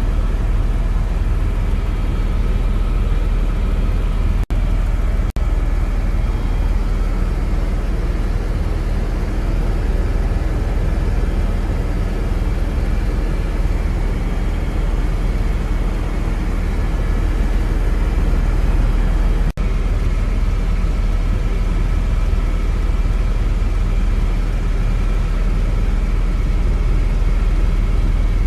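Steady, loud helicopter cabin noise in flight: a deep rumble with a few constant whining tones above it, broken by three brief dropouts.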